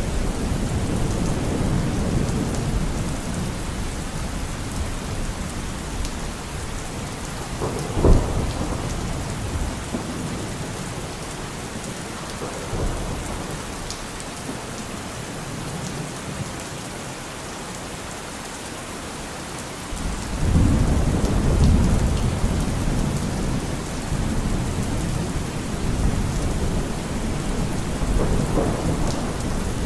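Steady rain with rolling thunder: deep rumbles at the start and a louder one about two-thirds of the way through, and a single sharp crack about a quarter of the way in.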